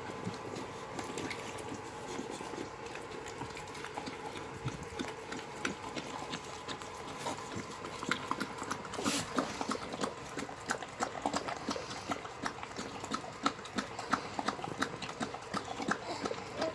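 Boxer puppies eating messily: many quick, irregular wet smacking and clicking sounds, busier from about eight seconds in.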